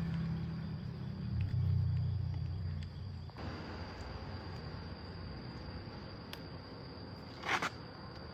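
A machine's steady low hum, which cuts off abruptly about three seconds in, over a faint steady high tone. A brief scrape comes near the end.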